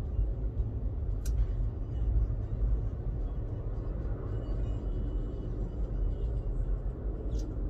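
Steady low rumbling noise, with a sharp click about a second in and another near the end.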